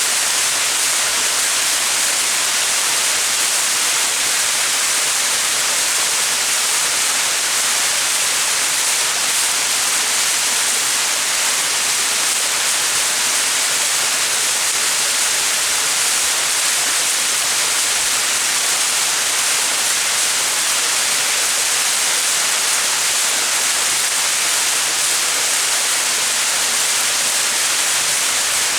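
Small mountain waterfall: water falling and splashing in a steady, even hiss.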